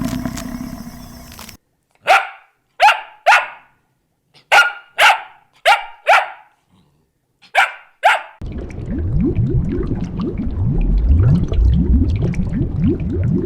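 A dog barking, about nine short single barks spaced irregularly, followed by a continuous low, rough sound with many quick rising pitches.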